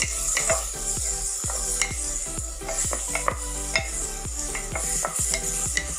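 A masala of onion, green chilli and tomato paste frying in hot oil, sizzling as a spatula stirs and scrapes the pan with quick, irregular clicks. Background music plays underneath.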